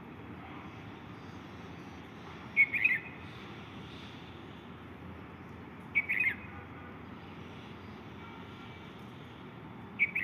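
A bird calling three times, about every three and a half seconds, each call a short quick run of a few high notes, over a steady low background hum of ambient noise.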